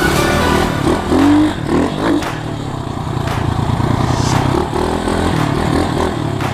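Pit bike's small single-cylinder four-stroke engine running and revving up and down, with scraping and clattering from the bike as it rides.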